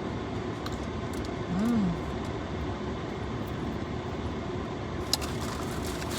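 Steady rushing of a car's air conditioning blowing inside the cabin. A brief hummed "mm" comes about a second and a half in, and a single sharp click near the end.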